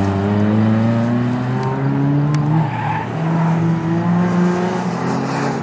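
Ford Puma race car's four-cylinder engine revving hard under acceleration. Its pitch climbs, drops sharply about two and a half seconds in, then climbs again.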